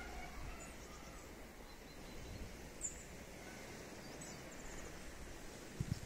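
Faint open-air ambience with a few brief, high bird chirps and a short trill scattered through it; a couple of soft knocks near the end.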